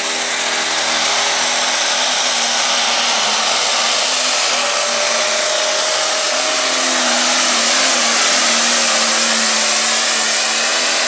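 Pulling tractor's turbocharged diesel engine running flat out under load during a pull: a loud, steady, noisy engine sound with a high turbo whistle over it, the engine note sagging and wavering about two-thirds of the way through.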